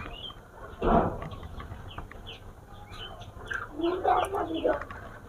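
Small birds chirping repeatedly in short calls, with a louder, lower call around four seconds in. There is a single thump about a second in, which is the loudest sound.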